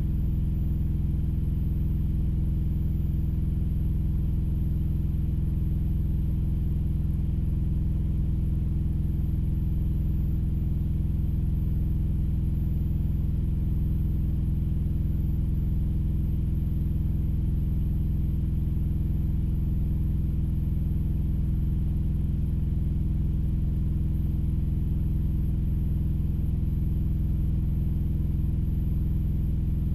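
Engine idling in a steady low drone, heard from inside the vehicle's cab, unchanging throughout.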